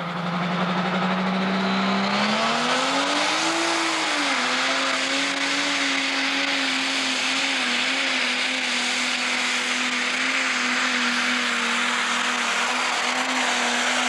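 Pro stock pulling tractor's turbocharged diesel engine at full power, hauling the sled down the track. Its pitch climbs about two seconds in, dips slightly a couple of seconds later, then holds steady under heavy load.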